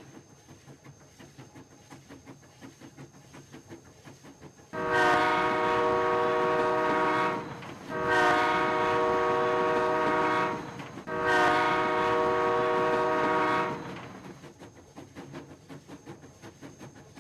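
Train horn sounding three long blasts, each a steady multi-note chord lasting about two and a half seconds, the first starting about five seconds in. A faint, quick rhythmic clatter runs underneath.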